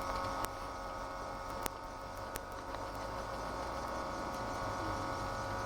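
Ford GT40's V8 engine running at a steady, moderate speed, heard from inside the cockpit as a constant hum with a low rumble. A few small clicks sound over it.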